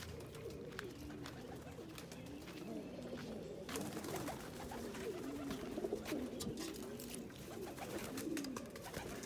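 Several domestic pigeons cooing at once in a loft, their coos overlapping and each rising and falling in pitch, with faint scattered clicks among them.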